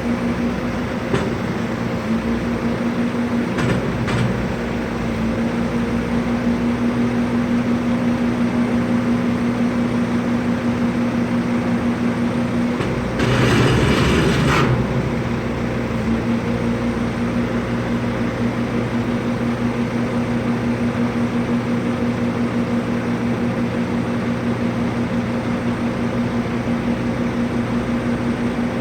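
Steady hum of a vehicle running, heard from inside, with a louder rushing burst lasting about a second and a half near the middle and a few faint clicks in the first few seconds.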